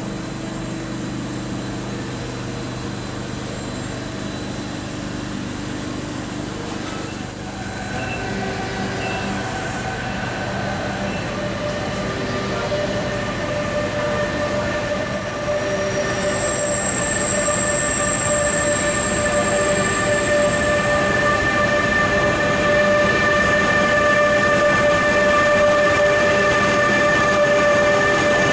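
Train with red DB electric locomotives drawing into the platform and passing close by, growing steadily louder. From about a third of the way in, several long, steady high squealing tones rise over the rumble and are loudest in the second half.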